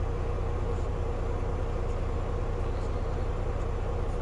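Volvo VNL 860 semi truck's diesel engine idling, heard from inside the cab: a steady low rumble with a constant hum above it.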